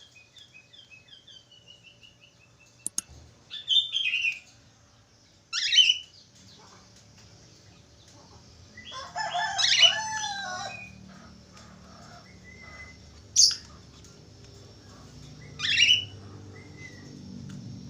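Budgerigar chirping and whistling: a quick run of short chirps at the start, then sharp falling calls spaced a few seconds apart and a longer warbling burst about nine seconds in.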